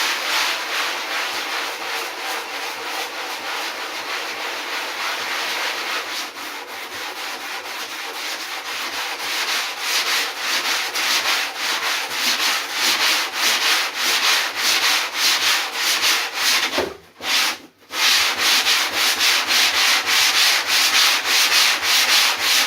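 Sandpaper rubbed back and forth by hand over the cured poured foam of a surfboard repair, in quick, even strokes, with two short breaks about three-quarters of the way through.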